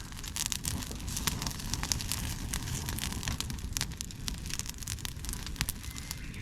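Campfire of chopped dry bamboo and twigs burning in a fire stand, crackling with frequent irregular sharp snaps over a steady low rumble.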